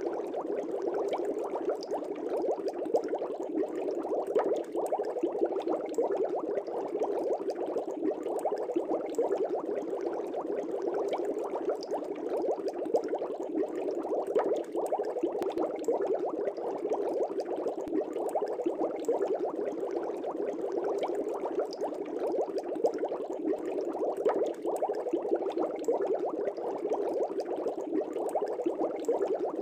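Aquarium air bubbles rising and breaking at the water surface: a steady, dense bubbling with many small pops.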